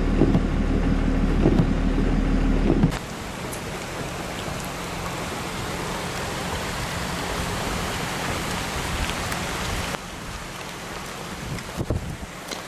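A vehicle engine idling with rain falling for about three seconds, then a sudden change to the steady hiss of heavy rain and floodwater rushing across the road, with a few faint knocks near the end.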